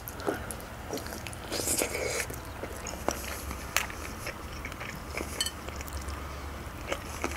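Close-miked eating sounds: biting and chewing boiled chicken off a drumstick bone, with scattered wet mouth clicks as she sucks her fingers clean.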